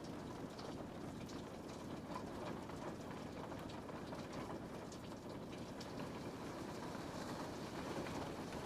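Steady rain with scattered drops tapping on a window pane.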